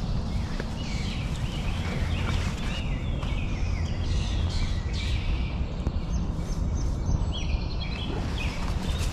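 Songbirds chirping in the woods, a run of short high calls and trills, over a steady low rumble.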